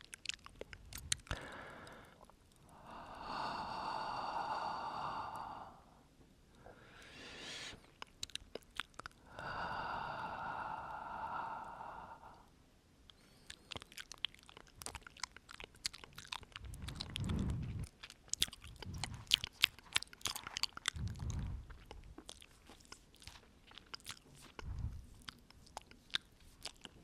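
Close-up mouth sounds into a microphone: two long breaths about three seconds and nine seconds in, then a long run of sharp mouth clicks and lip smacks, with a few low puffs of breath on the mic.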